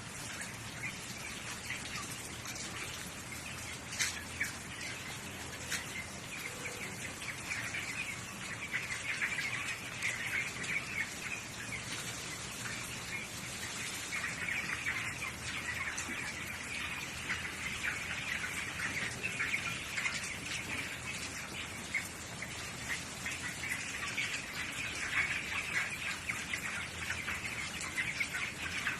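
A flock of poultry in a shed, with many overlapping high chirps and peeps running continuously.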